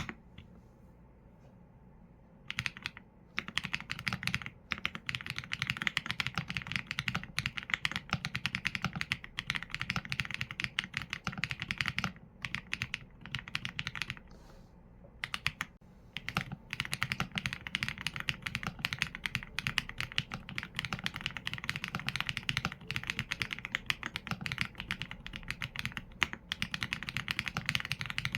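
Typing on a Qsenn A75 mechanical keyboard with Leobog Graywood V4 linear switches and PBT keycaps: quick runs of keystrokes, starting about two and a half seconds in, with short pauses between bursts.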